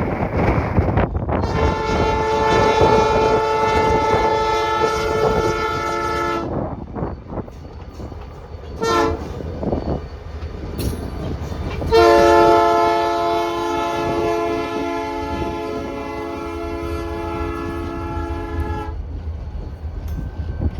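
BNSF diesel locomotive's multi-chime air horn sounding a long blast, a short blast, then a final long blast, the closing part of a grade-crossing signal, over the low rumble of the passing locomotives and wind on the microphone.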